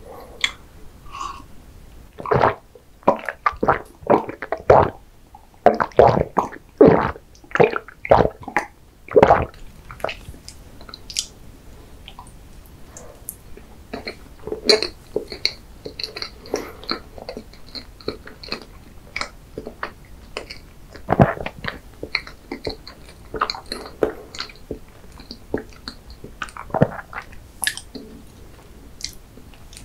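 Close-miked mouth sounds of eating and drinking: several loud gulps of a drink in the first seconds, then softer wet chewing and lip smacks of soft chocolate cake.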